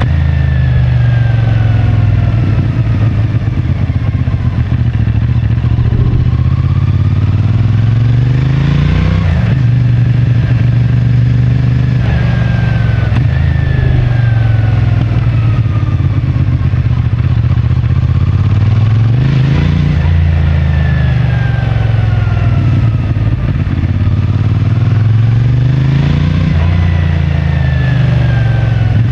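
CFMoto 450MT's 449 cc parallel-twin engine through its stock exhaust while riding in city traffic. Its pitch climbs under acceleration and falls back three or four times.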